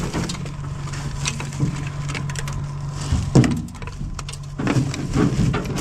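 Tractor engine idling with a steady low hum, under irregular cracking and clunking from hands-on work at the plugged corn picker, with the loudest knock about three and a half seconds in.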